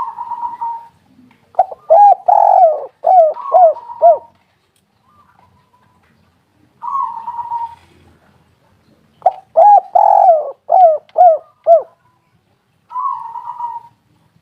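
Spotted dove (tekukur) cooing: two song phrases of about five coos each, with a short hoarse note before each phrase and another near the end.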